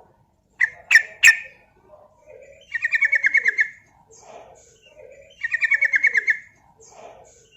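Yellow-vented bulbul (trucukan) singing: two sharp loud notes about a second in, then twice a fast trill of rapidly repeated notes, each lasting about a second. This is the long rapid 'ropel' song used to provoke other bulbuls into singing.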